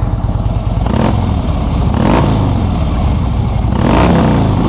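Harley-Davidson Street Glide's 103 cubic inch V-twin engine running through Vance & Hines slip-on mufflers, the throttle blipped about three times so the revs rise and fall, the last rev the loudest.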